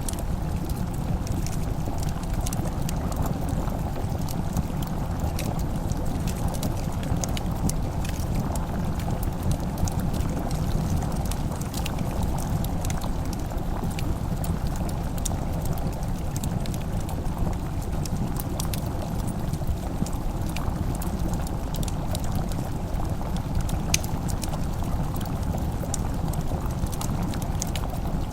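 Wood fire crackling, with scattered sharp pops over a steady low rumbling bed of noise.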